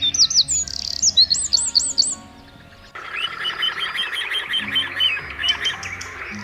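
Small birds chirping: a quick series of high, down-slurred notes for about two seconds, then after a short lull a different, lower chirping over a steady hiss from about three seconds in. Soft background music runs underneath.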